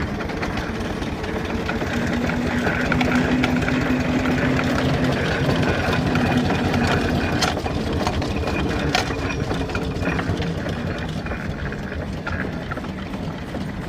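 An engine running steadily, with a held low hum and a few light clicks.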